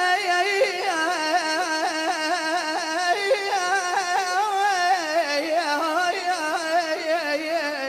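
A single voice sustaining one long melismatic sung phrase in Iraqi chanting style, wavering rapidly in pitch throughout and sliding slowly lower in its second half.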